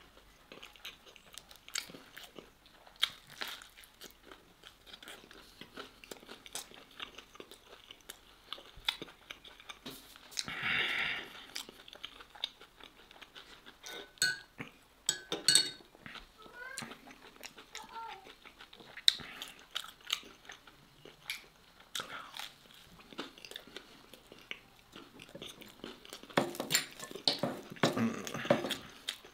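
A person chewing and biting food with crunching, close to the microphone: steak and bread in sauce. Near the end comes a dense run of small clicks as fingers pick the last scraps off the plate.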